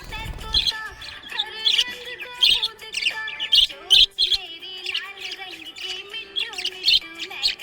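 Small pet parrots chirping: short, high, repeated chirps, roughly one or two a second, with a low thump at the start.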